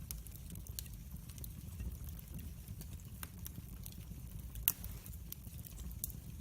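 Wood fire burning in a fireplace: a low steady rumble of flames with scattered crackles and pops, one sharper pop near the end.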